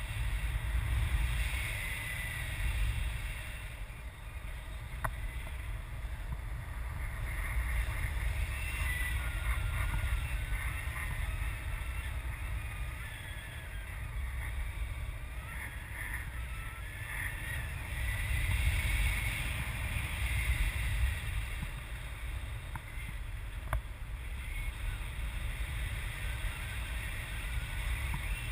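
Wind buffeting the microphone: a low rumble that swells and eases in gusts.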